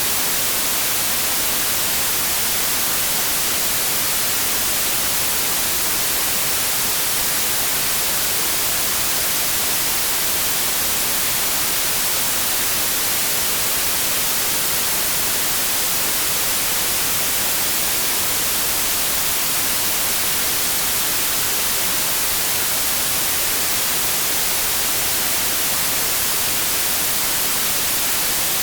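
Steady white noise: an even, unchanging static hiss.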